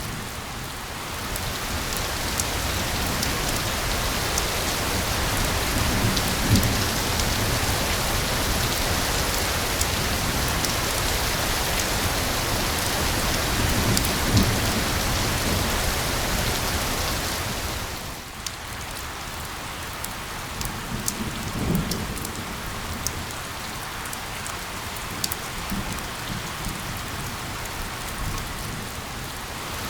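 Steady heavy rain, a dense hiss with scattered sharp drop ticks, that eases to a lighter fall abruptly about two-thirds of the way through. A few low rumbles swell and fade underneath it.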